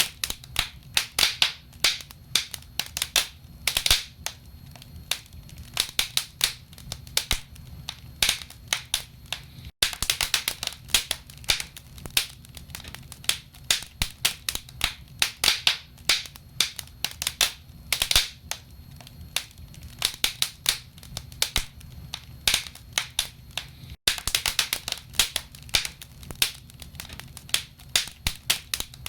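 Wood fire crackling in a fireplace: dense, irregular sharp pops and snaps from burning logs over a low steady rumble of the flames. The sound cuts out for an instant twice.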